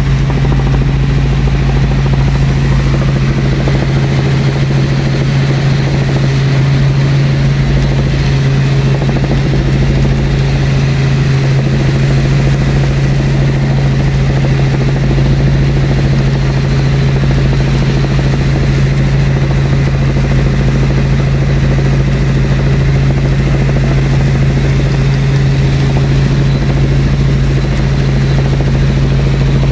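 Helicopter in flight, heard from inside the cabin: a steady, loud drone of rotor and engine with a strong low hum that does not change.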